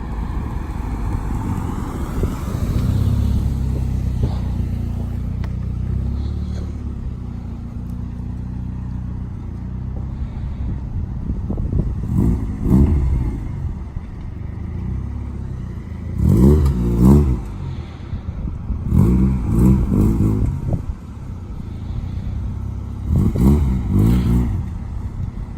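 Acura Integra with a B20 engine running, revved up and back down several times in the second half.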